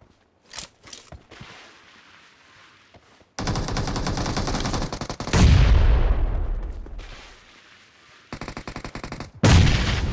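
Automatic gunfire in a shooter video game: a few scattered shots at first, then a long rapid burst starting about three seconds in. A louder, heavier shot with a long fading tail comes about halfway through, followed by another rapid burst and another heavy blast near the end.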